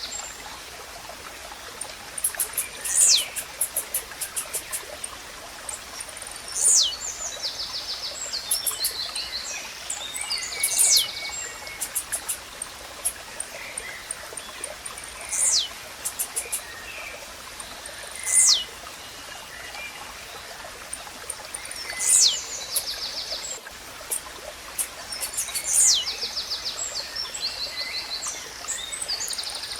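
Blue-black grassquit (tiziu) repeating its short, sharp, downward-sweeping song note about every three to four seconds. Other birds' rapid high chirps and a steady rush of running water sound behind it.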